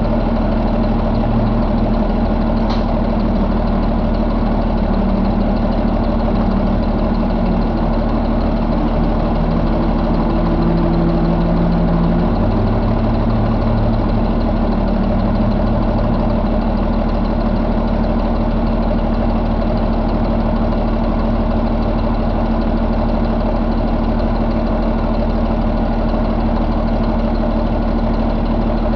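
2014 Cummins ISX15 inline-six diesel engine idling steadily, with a brief tick about three seconds in.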